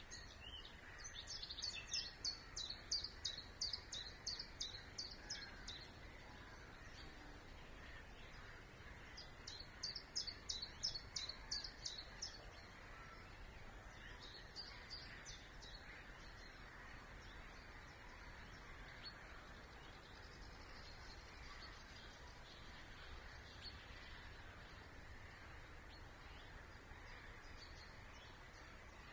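A songbird singing in strophes of rapidly repeated high notes: a long strophe near the start, a shorter one about ten seconds in and a brief one a few seconds later, then only faint distant birdsong. A steady low background rumble runs underneath.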